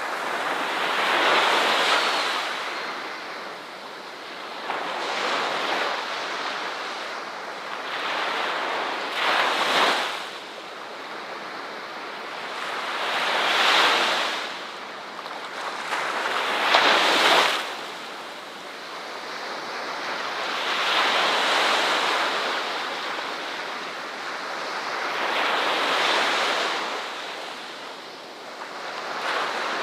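Ocean waves breaking and washing up on a shore, each surge swelling and then easing away every three to five seconds.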